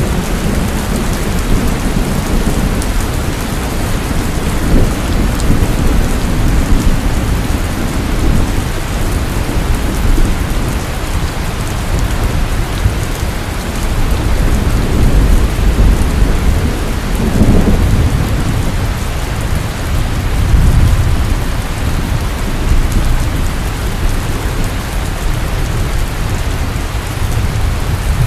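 Heavy rain pouring steadily, with low rolling thunder swelling several times underneath, strongest about two-thirds of the way through.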